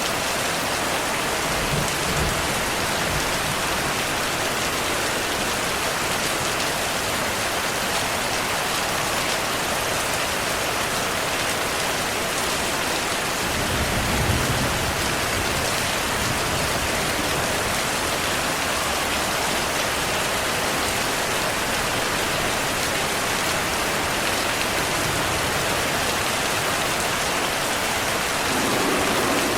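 Heavy, steady rainfall with low rolls of thunder: a faint rumble about two seconds in, and a stronger one about halfway through.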